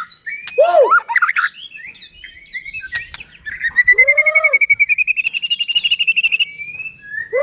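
White-rumped shama singing: a run of varied whistled phrases with a few low arching notes and sharp clicks, then a fast rattling trill that rises slightly in pitch over about three seconds.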